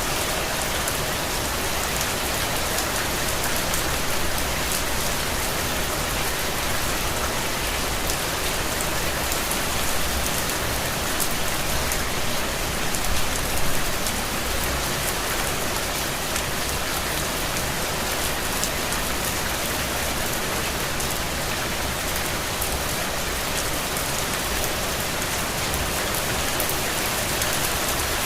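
Steady rain falling, a dense even patter of drops on surfaces, with a few brief swells in intensity.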